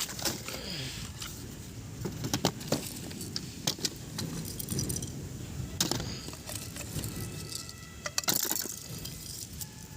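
Toys being handled: irregular sharp clicks and clatters of small hard objects knocking together, over a steady low background noise.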